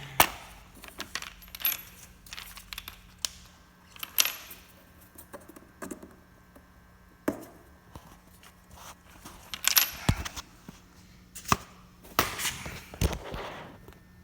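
Irregular sharp clicks and light metallic clinks of small parts being handled, some ringing briefly: a car air filter's metal screen and its fittings being worked by hand.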